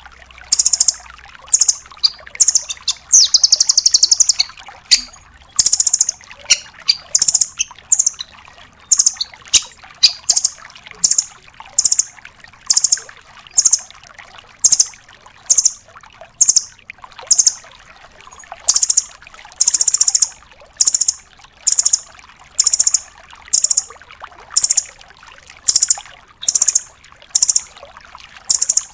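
Nuthatch (rambatan doraemon) calling over and over in sharp, high-pitched bursts about once a second, with a fast rattling trill about three seconds in.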